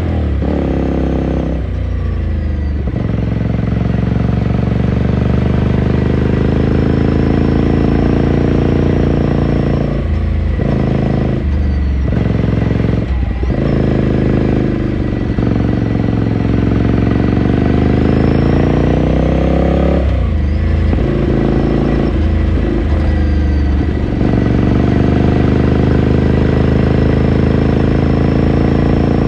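Ducati Scrambler Sixty2's air-cooled L-twin engine and exhaust heard from the rider's seat, the revs rising and falling again and again, with short drops between climbs that mark gear changes and throttle lifts.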